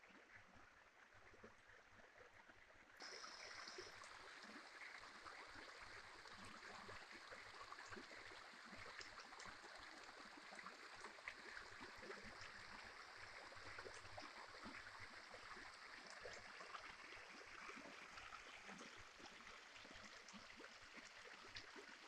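Faint running water of a small stream, babbling steadily; it becomes suddenly louder about three seconds in.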